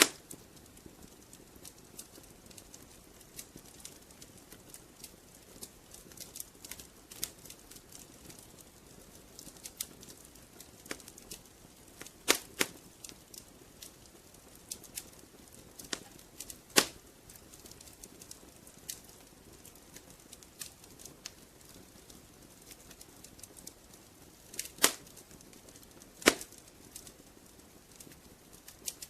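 Wood fire in a fireplace crackling: a soft steady hiss with frequent small irregular snaps, and a few louder pops of burning logs, about midway and twice near the end.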